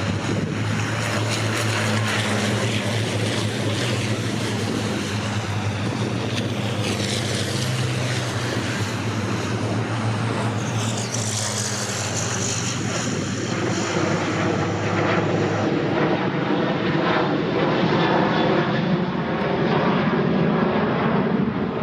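Racing trucks' diesel engines running at speed, a steady heavy drone with one vehicle sweeping past about halfway through; the engine note turns rougher and louder in the last few seconds.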